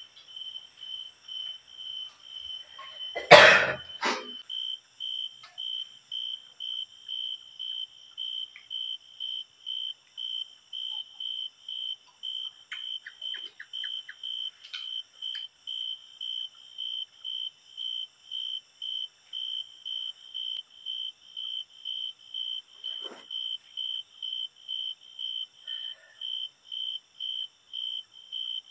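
A cricket chirping steadily in a high, even pulse, about two chirps a second. A brief loud noise cuts in a little over three seconds in.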